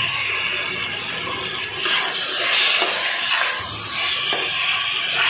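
Chopped tomatoes and sliced onions sizzling in hot oil in a pressure cooker while being stirred with a spatula. The sizzle gets louder about two seconds in.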